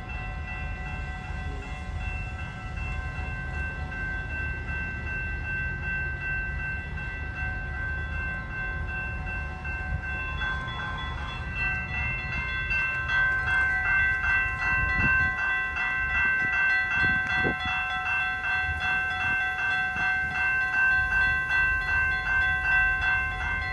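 General Signals and Safetran electronic crossing bells ringing steadily with the gates down, over the low rumble of a GO Transit MP40 locomotive idling with its train stopped at the station. About twelve seconds in, the bells swell into a louder pulsing ring of about two strokes a second.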